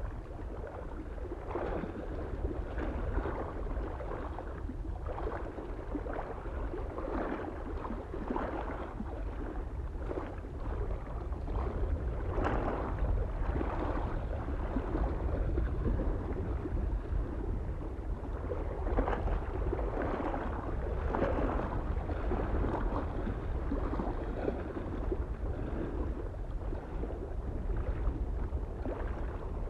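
Small waves lapping and splashing on a lake shore in an irregular series of splashes, over a steady low rumble of soft wind on the microphone.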